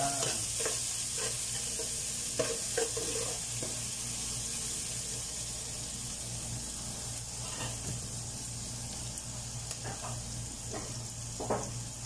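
Butter melting and sizzling with onion, garlic and chili in a large metal pot, a steady frying hiss, while a spatula stirs and now and then scrapes and clicks against the pot.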